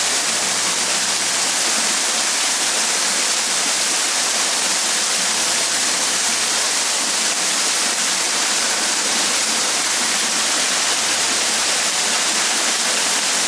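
Waterfall: a steady, even rush of falling water that starts and stops abruptly.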